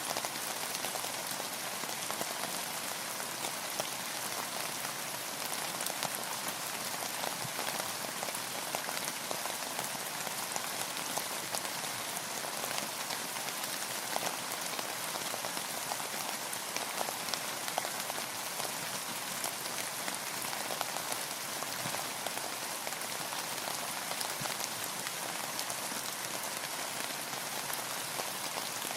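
Steady rain falling: a dense, even hiss with many small drop ticks mixed in.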